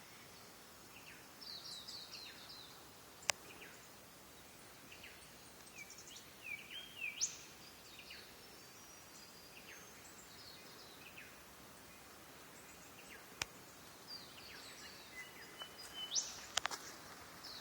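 Faint birdsong: scattered chirps and short whistled glides from several birds, busiest about 6 to 7 seconds in and again near the end, with two sharp clicks about 3 and 13 seconds in.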